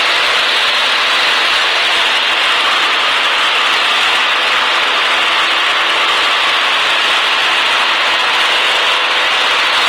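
Cockpit noise of a Cessna 152 in the climb: the Lycoming O-235 four-cylinder engine and propeller running steadily at climb power under a constant hiss of air and engine noise.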